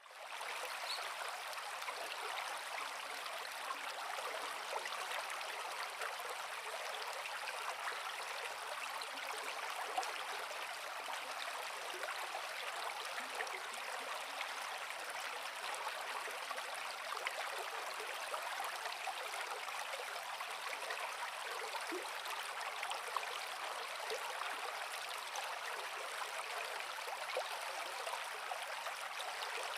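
Creek water flowing over rocks, a steady rushing and babbling without a break.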